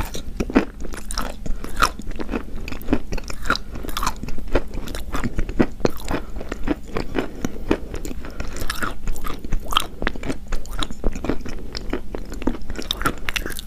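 Pieces of chalk being bitten and chewed close to the microphone: a dense, irregular run of crisp crunches, several a second.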